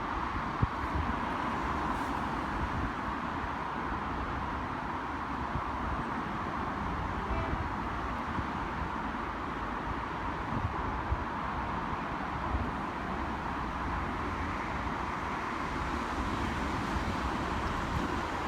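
NI Railways Class 4000 diesel multiple unit running, a steady hum over a low rumble, with a few faint knocks.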